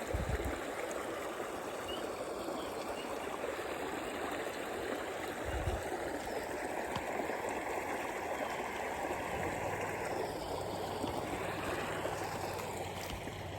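Small stream of water running steadily over a little waterfall, an even rushing. A couple of short low bumps and, in the last few seconds, a faint low hum sit under it.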